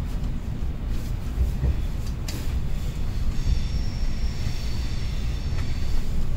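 Train rumbling as it pulls out of the station, heard from on board. There is a sharp click about two seconds in, and from about three seconds in a steady high whine joins the rumble.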